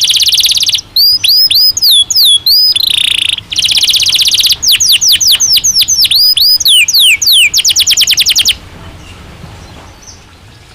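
Domestic canary singing: fast buzzing trills alternating with runs of quick swooping notes, stopping abruptly about eight and a half seconds in.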